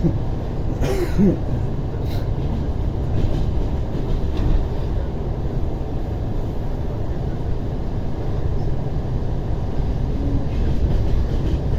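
Inside a carriage of an ER9T electric multiple unit running along the line: a steady low rumble from the wheels and car body, with a few brief knocks in the first two seconds.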